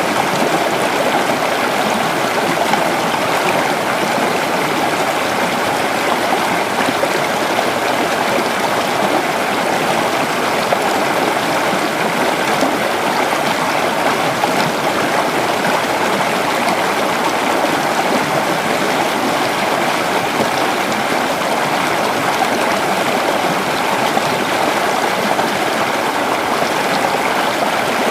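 Creek water flowing and babbling over rocks, a steady, even rush.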